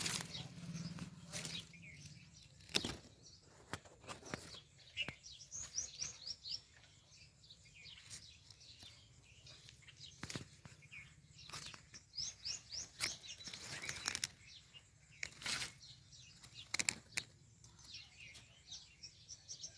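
House sparrows chirping in quick runs of short, high notes, with a few sharp taps and rustles in between.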